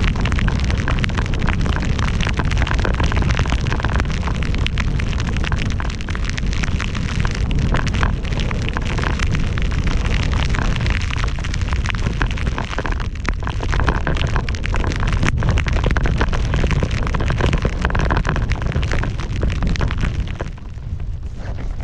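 Heavy wind buffeting the action-camera microphone with a low rumble, over the hiss and crackle of a board or skis cutting through powder snow at speed. The sound eases a little about twenty seconds in.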